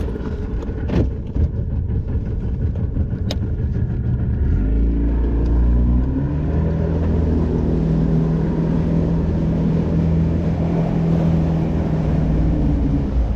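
Boat's outboard motor running, revving up about four or five seconds in and then holding a steady drone at speed, with a few knocks early on.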